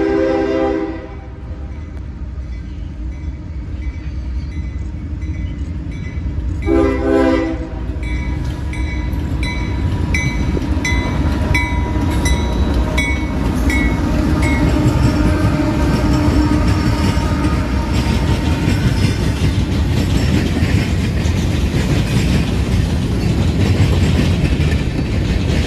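A CSX diesel-hauled freight train approaching and passing. The locomotive horn sounds and ends about a second in, then gives one short blast about seven seconds in, while a bell rings about twice a second until about halfway through. The locomotives' rumble builds as they go by, then gives way to the rolling and clatter of covered hoppers and boxcars over the rails.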